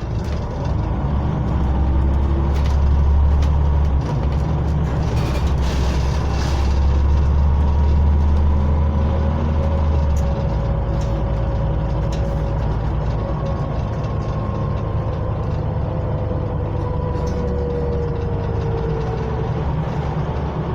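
Scania OmniCity single-deck bus's diesel engine running on the move, heard from inside the saloon. A heavy low drone for about ten seconds drops to a lighter running note, with a faint whine rising and falling above it.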